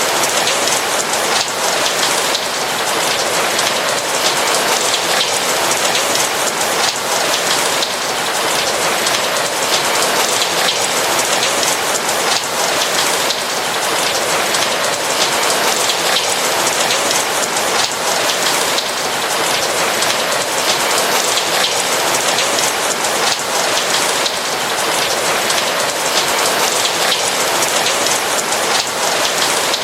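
Steady rain falling, a dense, even patter of raindrops with no thunder.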